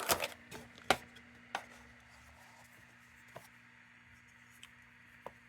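A few sharp clicks and taps of a lantern wick and its box being handled on a workbench, the loudest about a second in, then scattered single taps, over a faint steady hum.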